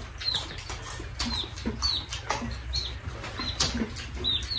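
A small bird chirping nearby, repeating short, high notes that fall in pitch about twice a second. Under it are scattered clicks and crunches of people eating with their hands, and a low steady hum.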